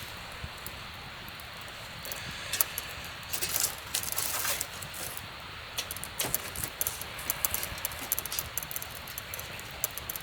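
Irregular light metallic clinks and rattles with rustling from camp cookware being handled, with a cluster of louder scrapes and bursts in the middle and dense small ticks in the second half.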